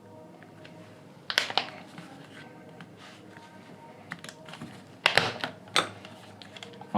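Scattered sharp clicks and snaps as the mesh grille of a JBL Flip 3 Bluetooth speaker is pried off: a couple about a second and a half in, and a louder cluster around five seconds.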